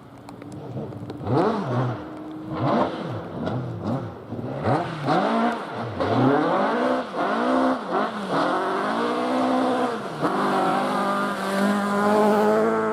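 Rally car engine revving hard on a forest stage, its pitch climbing and dropping again and again with throttle and gear changes, getting louder about a second in, then held high and steady near the end.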